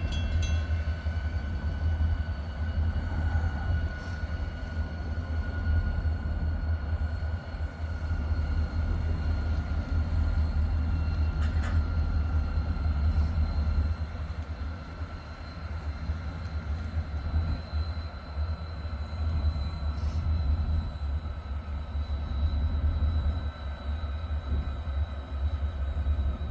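Diesel locomotive running close by: a steady low rumble with a thin, steady high whine over it and a few faint clicks.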